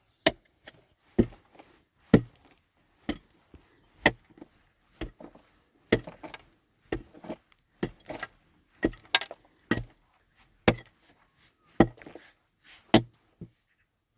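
A series of sharp knocks or chopping strikes at an uneven pace, about one or two a second, some coming in quick pairs.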